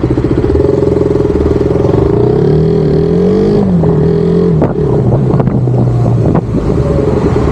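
Motorcycle engine running steadily. Its pitch rises and falls briefly about two to four seconds in, and a few sharp knocks come around the middle.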